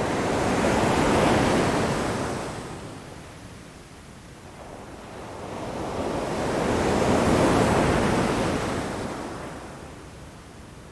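Ocean waves breaking against rocks, a rushing wash that swells and falls away twice, the surges peaking about a second in and again about seven seconds in.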